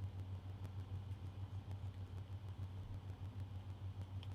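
Steady low hum that wavers quickly in level, with a few faint light ticks.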